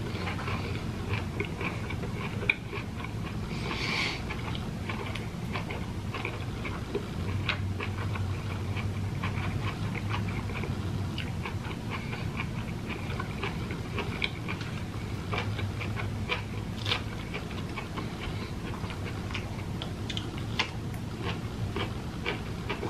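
Close-miked mouth sounds of someone eating ripe jackfruit: wet chewing and smacking with many small clicks, over a low steady hum.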